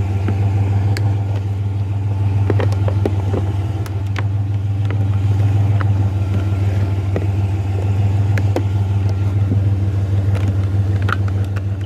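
Truck engine running steadily with a deep, even hum, while scattered light clicks and knocks sound over it.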